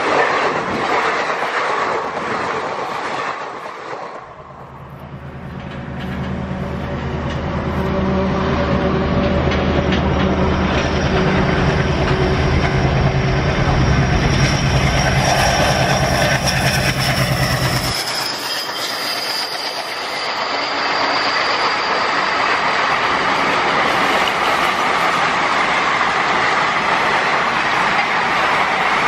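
Passenger coaches rushing past with wheel clatter. After a few seconds this gives way to the low drone of a WDG-3A diesel locomotive's ALCO engine, which cuts off suddenly. Then its coaches roll past on the curve with a steady high-pitched wheel squeal.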